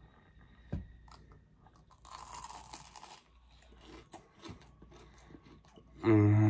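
A bite into the crisp fried crust of a Jollibee ube cheese pie: a crunch about two seconds in, then quieter closed-mouth chewing with small clicks. Near the end a man starts a steady hummed "mmm" of approval.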